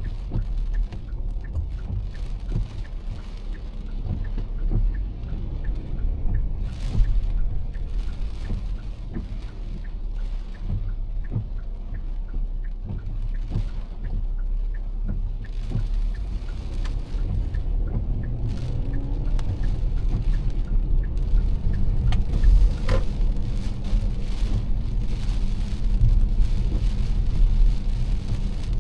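Heavy rain pattering on a moving car, with scattered drop hits over the steady low rumble of the car driving on a wet road.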